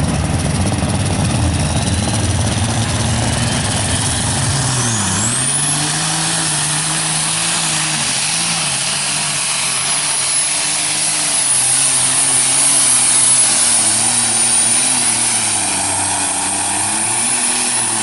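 Light super stock pulling tractor's turbocharged diesel engine running hard under load, with a high turbo whine. The whine climbs steeply a few seconds in and then holds as a steady whistle. The engine note dips and recovers about five seconds in.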